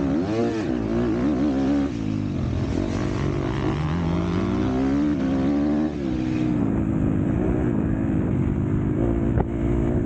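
Motocross bike engine revving hard, its pitch climbing and dropping again and again as the throttle is opened and shut, with a sharp knock about nine seconds in.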